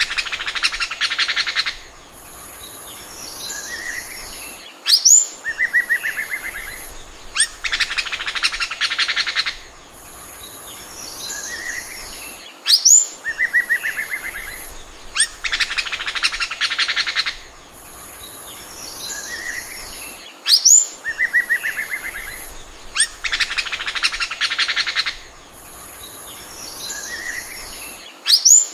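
Oriental magpie-robin singing: a sharp upward-sweeping whistle, then a fast trill lasting about two seconds, then softer warbled notes. The same sequence repeats about every eight seconds.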